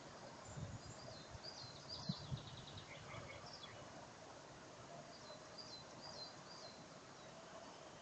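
Faint songbirds singing: short high chirps repeated in quick runs, in two spells. A few low thumps come about half a second in and again around two seconds in.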